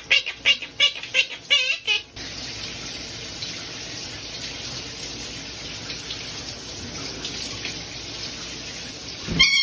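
A pet bird's quick chirping calls for about two seconds. Then a tap starts running water, a steady rush that cuts off abruptly near the end.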